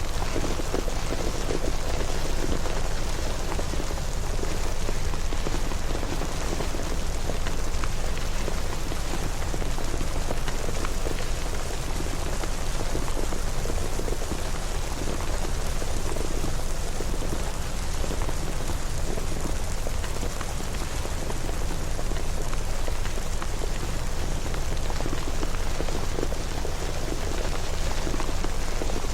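Steady rain falling and pattering on surfaces, an even hiss thick with small drop ticks.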